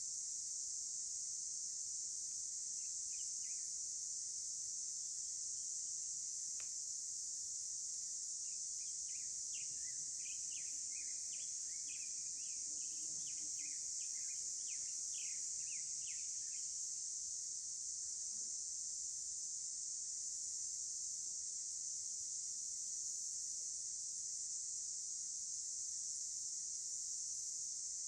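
Steady high-pitched insect chorus, with a bird giving a quick run of short chirps for several seconds in the middle and one sharp click before it.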